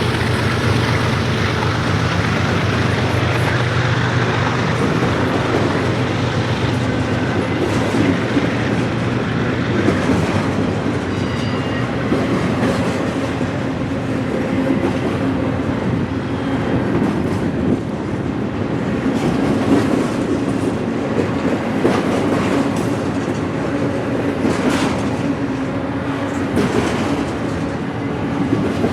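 A long freight train's cars rolling past close by: a steady rumble with wheels clattering over rail joints and a few faint wheel squeals.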